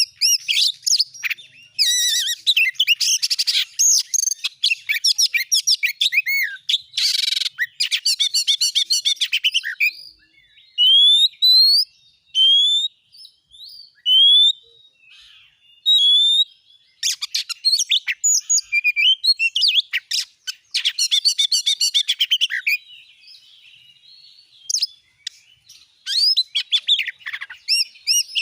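Oriental magpie-robin (kacer) singing a varied song: bursts of rapid chattering phrases, with a run of clear rising whistles in the middle.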